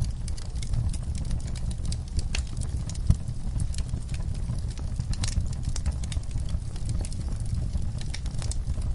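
Wood fire crackling in a fireplace: irregular sharp pops and snaps over a steady low rumble of the flames, with one louder pop about three seconds in.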